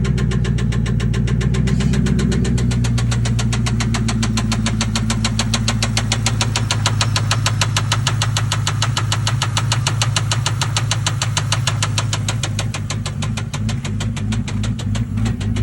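2000 Lincoln Town Car's swapped-in engine idling with a loud, rapid, even ticking, which the owner puts down to broken timing-chain tensioner arm and guide pieces and a probably blown-out tensioner. Near the end the running turns uneven, which he calls misfiring.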